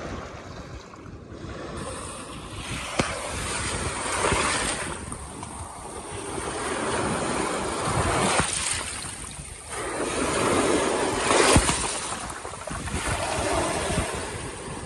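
Waves breaking over a rocky shoreline and draining back out over the rocks, the surf swelling and falling every few seconds, with a couple of sharp splashes.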